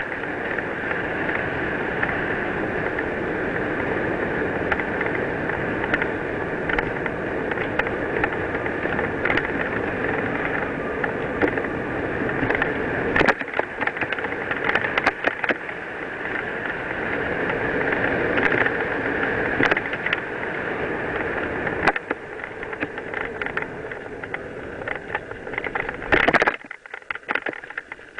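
Mountain bike rolling along a dirt trail: steady tyre noise over the loose surface, with rattles and sharp knocks from the bike hitting bumps. There are several clatters in the second half and a loud burst of them near the end.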